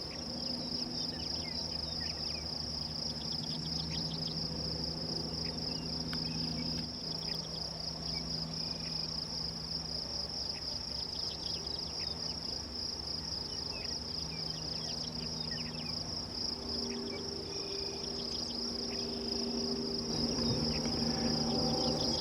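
A steady, high-pitched chorus of insects on the prairie, a continuous fast trill, with a few faint short chirps scattered over it.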